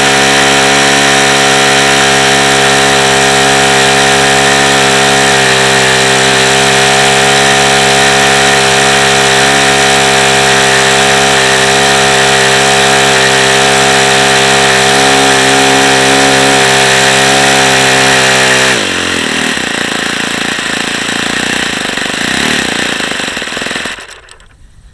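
Saito FA-45 four-stroke model glow engine with badly worn bearings running at full throttle, a steady high-pitched buzz, then throttled back about nineteen seconds in so the pitch drops quickly into a slower, rougher idle before the sound falls away almost completely near the end. Its top-end speed sags as it heats up, which the owner takes as the sign of a tired, worn-out engine.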